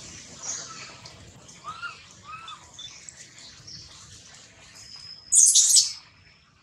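Birds chirping, with short arched calls about two seconds in and a brief loud, shrill call about five seconds in.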